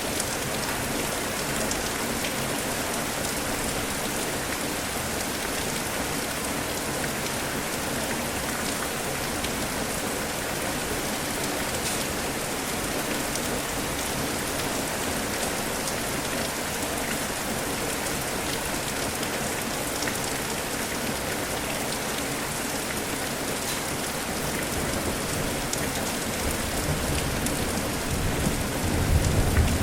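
Steady rain falling, with many fine drop ticks. A low rumble of thunder builds over the last few seconds.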